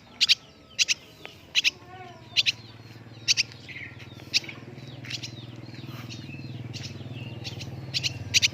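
Swiftlet giving short, sharp chirps, mostly in pairs and spaced irregularly. A steady low hum comes in about two seconds in and carries on underneath.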